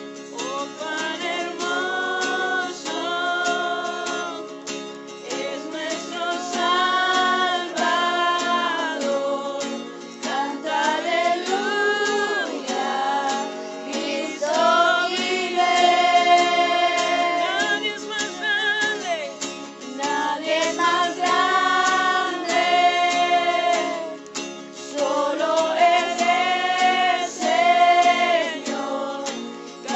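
Voices singing a worship song, with guitar, in phrases of a few seconds each.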